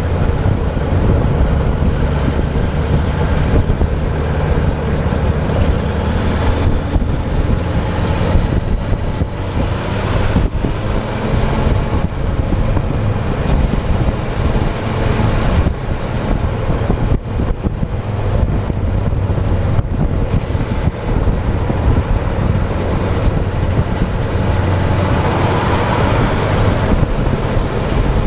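Motorcycle engine running under way, heard from a camera on the fuel tank, with wind rushing over the microphone.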